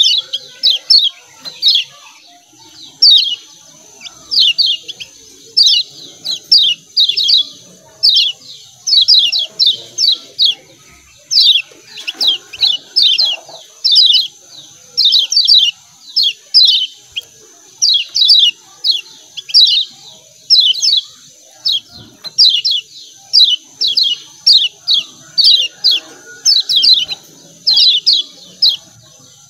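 Kecial kuning (yellow white-eye) giving rapid 'ciak ciak' chirping calls: short, high, downward-sweeping chirps in quick clusters of two or three, repeated about once a second without a break.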